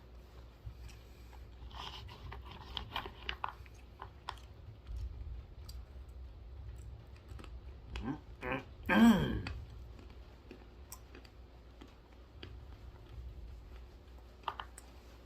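Dry roasted almonds being crunched and chewed close to the microphone, with sharp crunches thickest in the first few seconds. About nine seconds in comes a short vocal sound that falls in pitch, the loudest moment.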